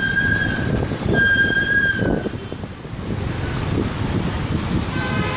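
City road traffic heard from a moving motorcycle, with engine and road noise throughout. A vehicle horn sounds twice near the start, once briefly and then for about a second, and a fainter horn comes near the end.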